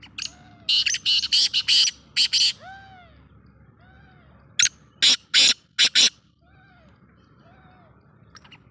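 Black francolin calling with harsh, grating notes in two bursts: a quick string of notes about a second in and another group around five seconds in.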